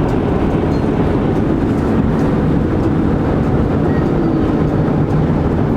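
Steady road and engine noise inside the cabin of a moving vehicle: a constant low rumble with a steady hum.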